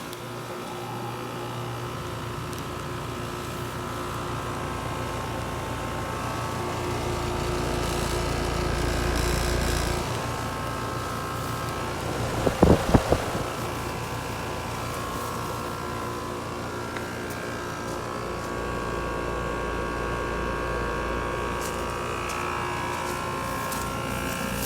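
2006 American Standard Allegiance 14 four-ton air conditioner's outdoor unit running just after start-up: a steady hum with the rush of its condenser fan, swelling over the first several seconds and then holding level. About halfway through come four or five brief loud knocks.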